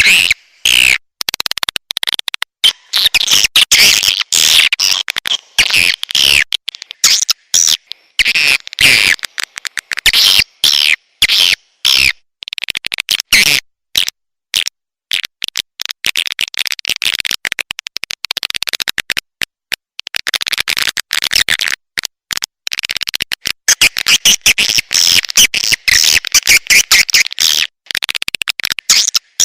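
Swiftlet call recording: dense, rapid chattering chirps and clicks of edible-nest swiftlets, broken by brief gaps, with busier stretches near the start and again in the last third. It is a lure recording played from tweeters to call wild swiftlets into a swiftlet house.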